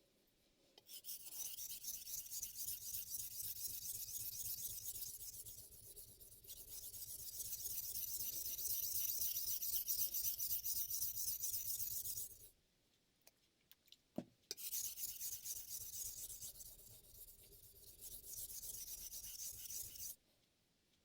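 Damascus steel chef knife blade being stroked back and forth on a Shapton M15 ceramic whetstone, a steady rhythmic scraping. It stops for about two seconds, with a single click in the gap, then resumes until shortly before the end.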